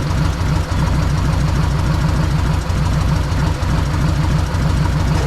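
Freshly rebuilt Harley-Davidson Evolution air-cooled 45-degree V-twin engine idling with a steady, fast low-pitched pulsing. It is running well after the rebuild.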